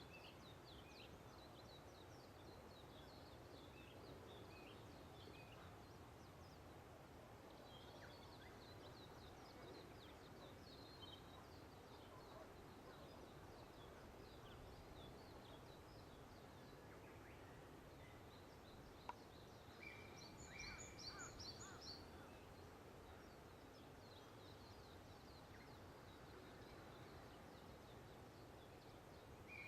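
Faint wild songbirds chirping and twittering over a low, steady background hum. About twenty seconds in, one bird gives a held whistle followed by a quick run of high notes.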